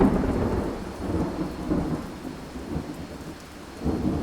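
Thunder over steady rain: a sudden clap at the start rolls into a long low rumble that slowly dies away, and a second peal swells up near the end.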